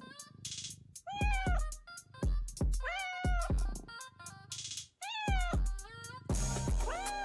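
Cat meowing repeatedly, short rising-and-falling meows mostly in pairs, over background music with a heavy beat.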